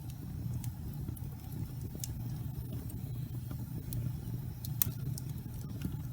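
Wood fire crackling: scattered sharp pops and snaps over a steady low rumble of the burning fire, with one louder pop about three-quarters of the way through.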